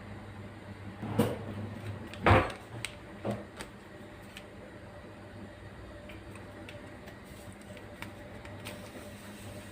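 Objects being handled: a knock, a louder thump about two seconds in and a lighter knock a second later, then a steady low hum with a few faint ticks.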